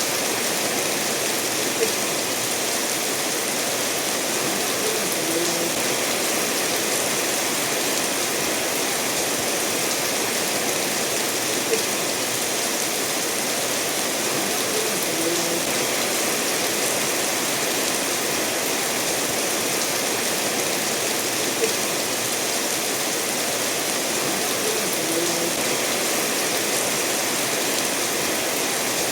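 Steady rain falling together with a stream running over stones: a dense, even hiss. A few brief soft plops recur at regular intervals.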